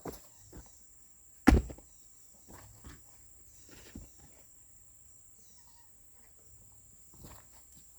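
A few irregular thuds and knocks, the loudest about one and a half seconds in, over a steady high-pitched insect drone.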